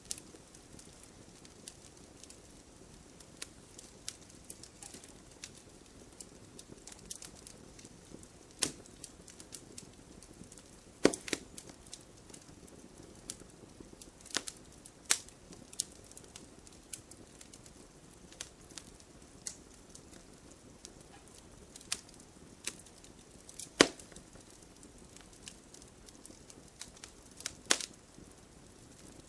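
Wood fire crackling: irregular sharp cracks and pops over a soft steady hiss, with a few much louder pops spaced several seconds apart.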